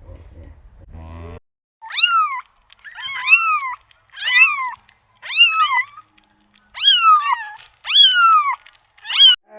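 Domestic cat meowing about seven times in a row, each meow rising and then falling in pitch. A low rumbling animal sound cuts off abruptly in the first second and a half.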